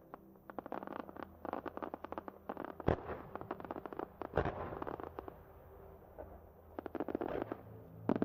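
Aerial firework shells bursting over and over, their stars giving off dense runs of rapid crackling. Two heavier booms stand out about three and four and a half seconds in, and another loud burst comes near the end.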